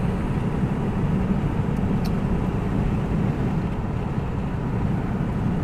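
Steady engine and road noise heard inside the cab of a moving vehicle, a low, even rumble.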